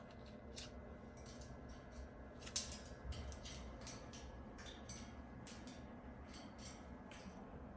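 Faint, irregular small clicks and ticks, roughly one or two a second, with one sharper click about two and a half seconds in.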